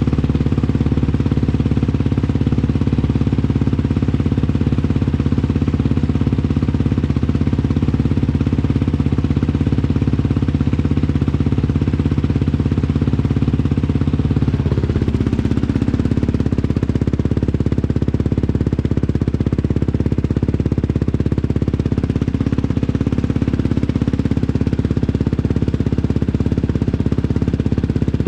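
2021 Yamaha YFZ 450R's single-cylinder four-stroke engine idling steadily after a cold start. Its tone shifts slightly about halfway through.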